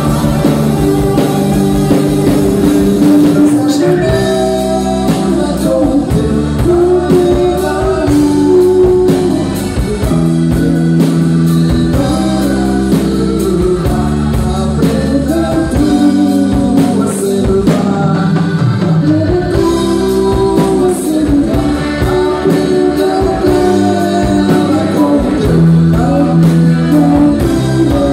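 A band playing with a singer: amplified instruments and voice over a steady drum beat.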